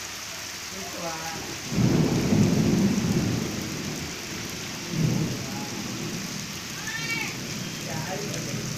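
Steady rain falling, with low rumbles of thunder, the loudest about two seconds in and another about five seconds in.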